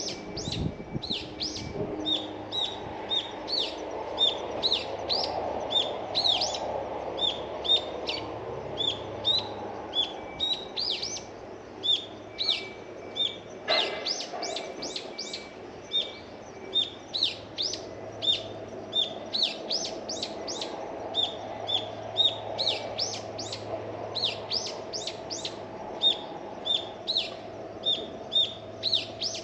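Small birds chirping continuously, short high sweeping notes, several a second, with a faint steady hum underneath.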